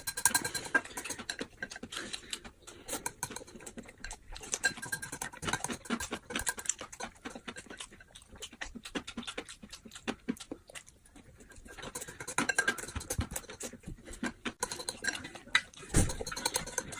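Close-miked sounds of a person eating: chewing with many small wet clicks and smacks. There is a single louder thump about sixteen seconds in.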